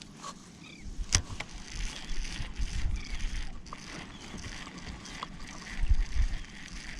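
Wind and water noise on an open boat: uneven low rumbling that swells and fades, with a sharp click about a second in and a couple of faint ticks later.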